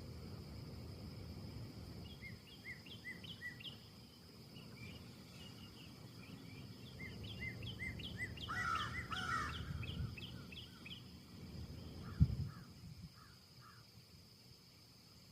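Wind in the trees as a steady low rumble, with small birds chirping in quick repeated series. A bit before the middle come two louder, harsher calls. A single sudden low thump sounds about twelve seconds in.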